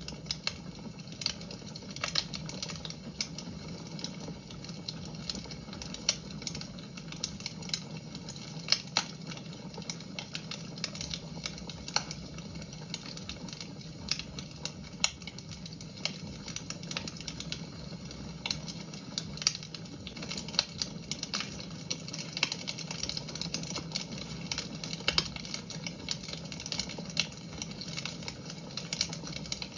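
Wood fire in a fireplace crackling, with many irregular sharp snaps of varying loudness over a steady low background.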